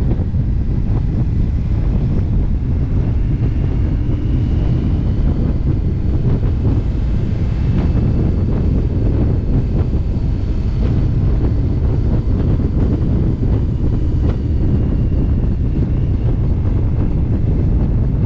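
Steady wind noise buffeting the microphone on a moving Indian motorcycle, with the bike's engine running underneath at a constant road speed.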